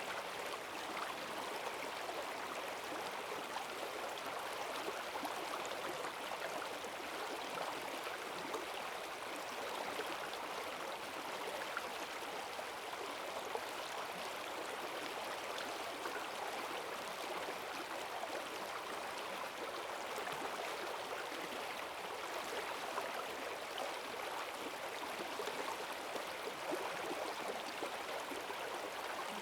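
Rain-swollen forest stream rushing and gurgling over its bed in strong currents, a steady, even wash of water.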